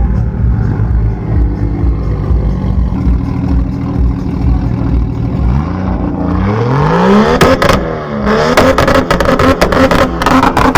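Nissan Skyline R33 GT-R's twin-turbo straight-six idling, then revved hard about six seconds in, with a string of sharp cracks while it is held high in the revs before the revs start to drop at the end.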